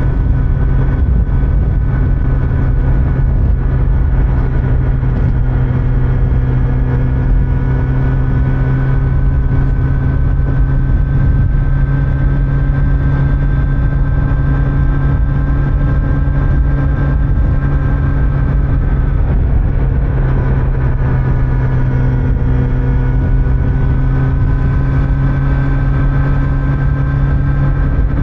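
Kawasaki Z900's inline-four engine pulling steadily at cruising speed, with road noise underneath. About twenty seconds in, the engine note dips briefly, then rises again.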